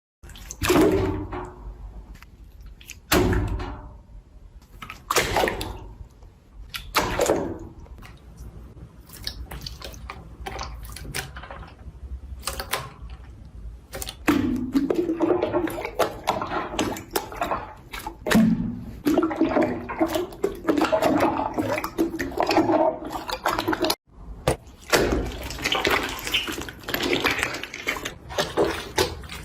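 Slime being squeezed and kneaded by hand, giving wet squelches and crackling, bubbly pops. A few separate squelches come first, then a denser run of crackling.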